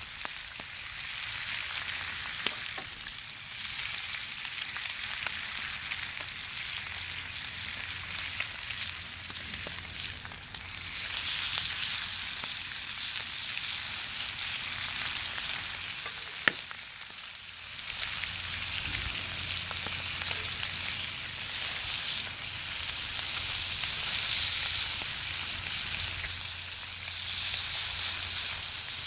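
Bacon sizzling over a fire: a steady hiss of frying fat with frequent small pops and crackles, and a sharper pop about sixteen seconds in.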